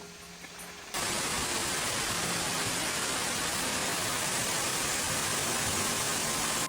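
Waterfall rushing: a loud, even wash of water noise that cuts in about a second in and cuts off suddenly at the end.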